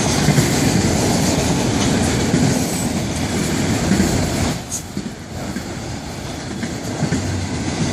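Freight cars of a Florida East Coast Railway train rolling past close by: a steady rumble of steel wheels on rail, loud for the first half and somewhat lower from about halfway through.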